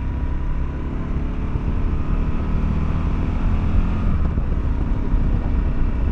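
Motorcycle engine running at road speed with steady wind rush, heard through the rider's helmet microphone; the engine note lifts slightly partway through and then eases back.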